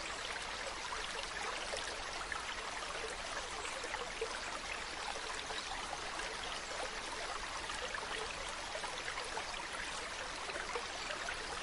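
Mountain stream running over rocks: a steady rushing and babbling of water that holds even throughout.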